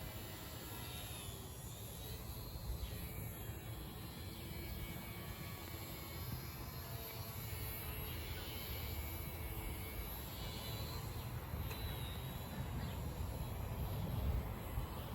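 Small electric RC airplane in flight, its motor and propeller faintly whining, over a steady low rumble of wind on the microphone.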